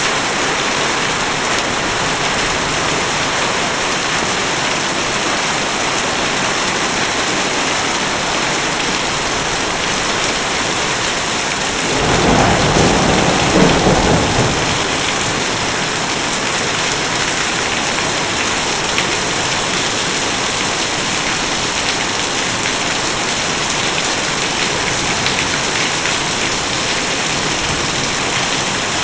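Heavy rain falling steadily, a dense even hiss of rain on surfaces. About twelve seconds in, a low rumble of thunder swells up for two or three seconds and fades back into the rain.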